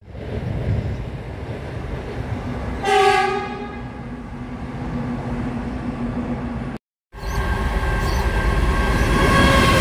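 Adelaide Metro electric multiple unit running past with a steady rumble, sounding its horn once for about a second about three seconds in. After an abrupt cut, a diesel-hauled train approaches, its rumble and steady engine tones growing louder.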